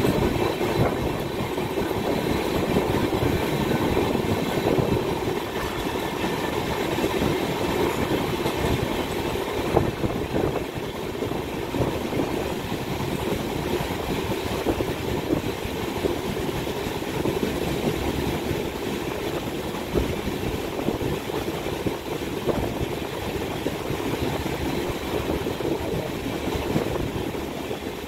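Express passenger train running along the track, a steady rolling rumble of the coaches' wheels on the rails, with a few sharper knocks from rail joints along the way.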